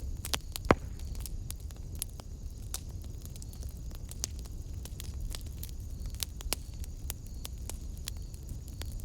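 Wood fire burning in a fireplace: a steady low rumble of flames with irregular crackles and pops, and one sharp, loud pop under a second in.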